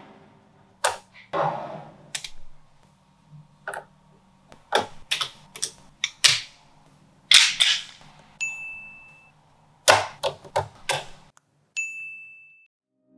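Small magnetic balls snapping and clicking together, a string of irregular sharp clicks, some with a short ringing rattle. Twice in the later part a high steady ding tone sounds for about a second.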